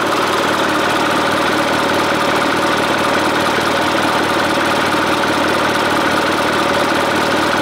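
Isuzu Elf's 4HL1 4.8-litre non-turbo diesel idling steadily, heard at the exhaust outlet while the exhaust pressure is being checked.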